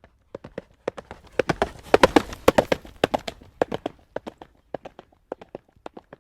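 A horse's hooves trotting on a hard road surface: a run of sharp clip-clop hoofbeats that grows louder and denser around two seconds in, then thins out again.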